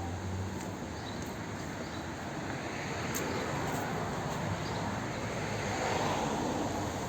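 Outdoor ambience of wind and distant road traffic: a steady rushing that swells about halfway through and eases off near the end.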